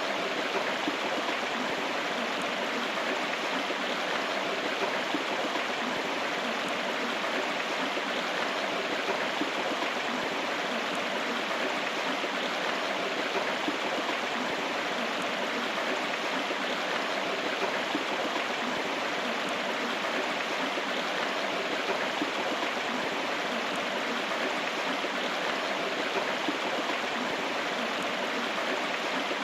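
River water flowing steadily, an even rushing sound without breaks.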